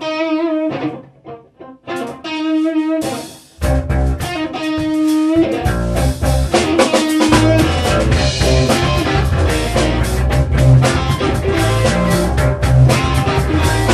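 Rock song intro: a guitar plays a few held, wavering notes alone, then the full band with drums comes in about three and a half seconds in and keeps a steady beat.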